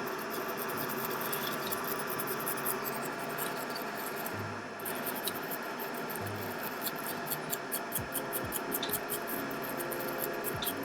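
Solder wick scraping across the circuit board's pads while they are cleaned, making a run of fine, scratchy high ticks, several a second, over a steady hum from the bench equipment.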